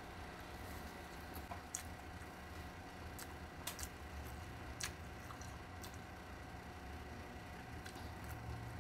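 A person chewing food with wet, squishy mouth sounds, broken by a few sharp clicks, over a steady hum.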